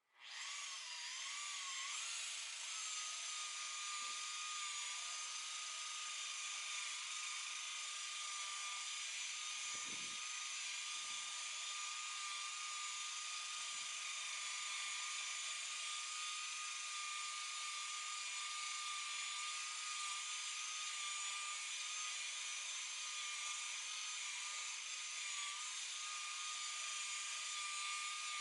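Electric hand-held polisher (boat buffer) switched on, its motor spinning up with a rising whine over the first couple of seconds, then running at a steady high-pitched whine. A few faint low thuds come in under it.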